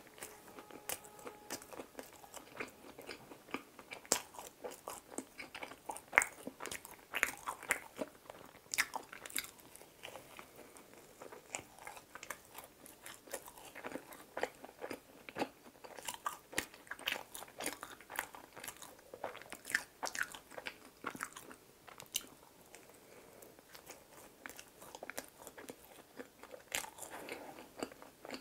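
A person chewing a cookies-and-cream doughnut close to the microphone: soft, wet mouth sounds with many small sharp clicks, now and then a louder one.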